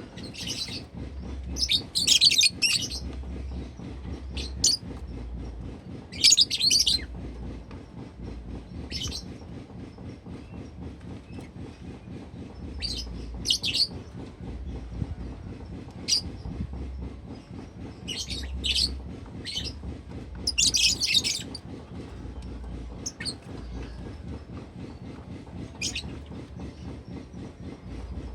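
Pet lovebird giving short, shrill chirps and brief chattering bursts at irregular intervals, over a steady low hum.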